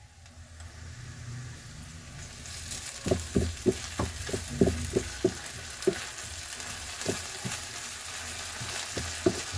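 Ginger-garlic paste and chopped onions sizzling in hot oil, the sizzle building from about two seconds in. A wooden spatula stirs them, scraping and knocking against the pan in irregular strokes from about three seconds in.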